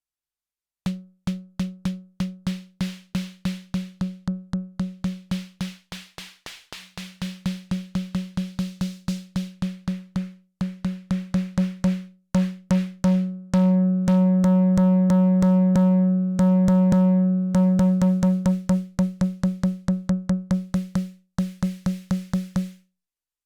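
Elektron Syntakt's analog "SD Natural" snare drum voice playing a fast repeating pattern of about four hits a second, each a pitched drum tone with a rattling noise on top. Midway the hits ring out longer and brighter as the sound is changed, then the pattern stops shortly before the end.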